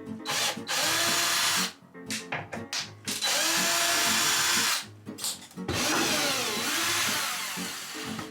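Power drill running in three bursts of a second or two each, its motor pitch gliding up and down, over background music.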